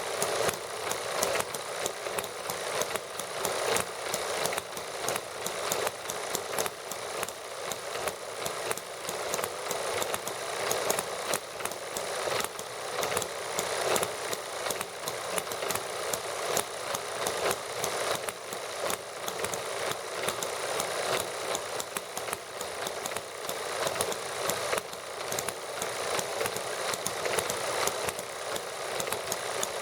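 Small model gasoline engines running on lighter fluid, making a rapid, even stream of firing clicks and light mechanical clatter that holds steady throughout.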